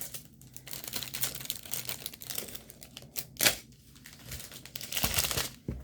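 Packaging crinkling and rustling as it is handled, in an irregular run of crackles, with one sharp loud crinkle about halfway through and a louder stretch near the end.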